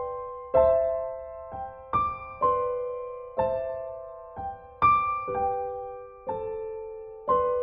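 Background piano music: chords struck roughly once a second, each fading away before the next.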